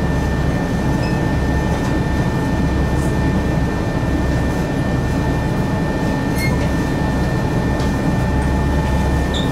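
Steady low rumble and hum inside a diesel railcar, with a faint steady high whine and a few small clicks, with no rhythmic rail joints.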